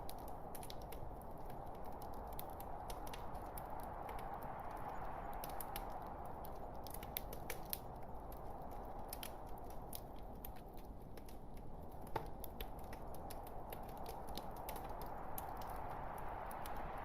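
Burning wood logs in a fireplace crackling: a steady rushing hiss of the flames with many irregular sharp pops and snaps, one louder pop about twelve seconds in.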